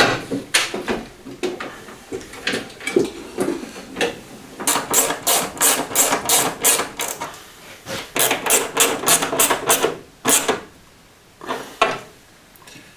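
Hand tools working on metal car parts: scattered clinks and knocks, with two runs of quick, regular clicking lasting about two seconds each, past the middle.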